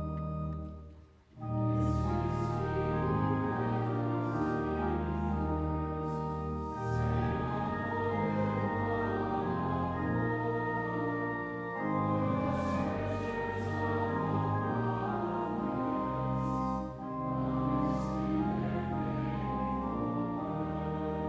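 Choir singing a slow sacred piece in sustained chords with organ accompaniment, breaking off briefly about a second in before the next phrase.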